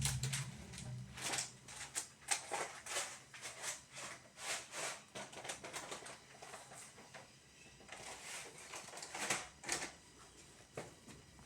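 Irregular clicking and rustling, as of objects being handled and moved about.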